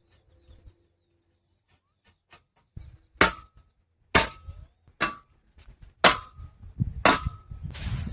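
A metal tent peg being hammered into the ground: five sharp strikes about a second apart, each ringing briefly.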